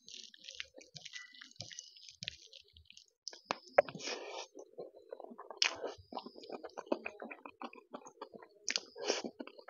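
Eating rice and taro root curry by hand: fingers mixing the rice and curry on the plate, then from about three and a half seconds in a mouthful being chewed, with many small clicks and crackles.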